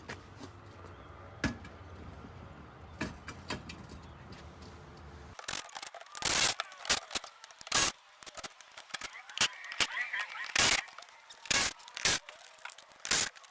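Clanks, knocks and rattles of tools and loose parts as a truck cab's interior and floor are taken apart. For the first five seconds a few scattered knocks sit over a steady low hum. Then the sound changes abruptly to a quick series of sharp, louder knocks and rattles.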